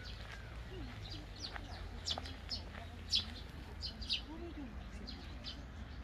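Small songbirds chirping: short high calls repeated two or three times a second, over a low steady rumble.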